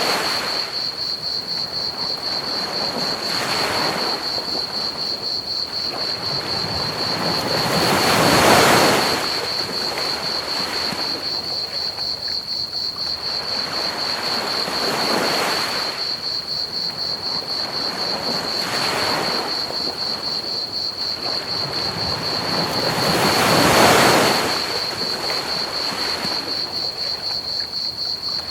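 Ocean waves breaking and washing up a beach, swelling every few seconds, with two bigger waves about a third of the way in and near the end. Under them runs a steady, fast-pulsing high trill of crickets chirping and an even hiss of pink noise.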